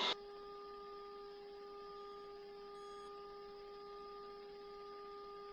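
Faint, steady electrical hum of a few held tones over light hiss on the helicopter's intercom and radio audio feed, with no speech on the line.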